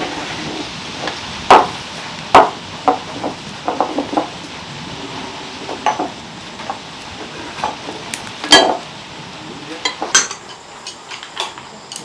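Irregular knocks and clinks of kitchen utensils against pots and dishes, several sharp louder strikes among lighter taps, over a faint steady hiss.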